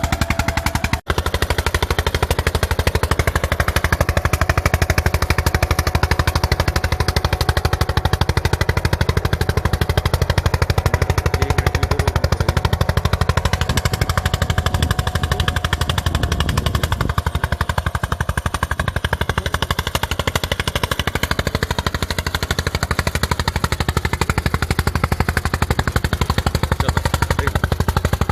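Diesel engine of a 1981 Eicher tractor running steadily under load while pulling an eight-tine cultivator, with a fast, even exhaust knock. The sound drops out for an instant about a second in.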